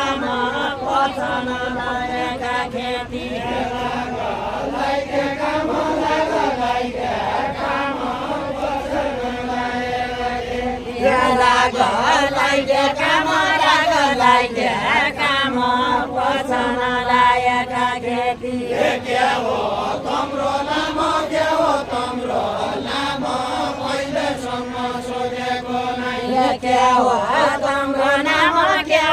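A group of singers chanting a Nepali Deuda folk song together in long, drawn-out lines. The singing gets louder about eleven seconds in, eases after about eight seconds, and swells again near the end.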